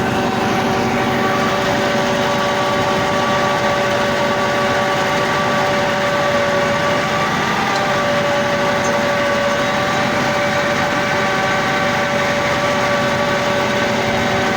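Massey Ferguson 385 tractor's diesel engine running steadily, with several steady whining tones over the engine noise.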